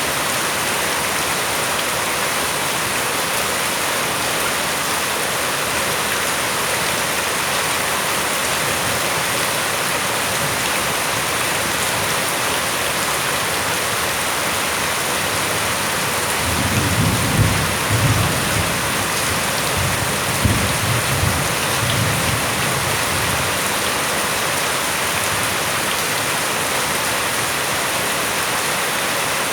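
Steady rain falling, with a low rumble of thunder rolling in several swells for about six seconds past the middle.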